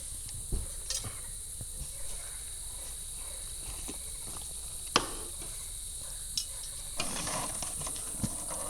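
Steady, high-pitched chorus of insects, with a few sharp clicks and, from near the end, a clatter of handling noise.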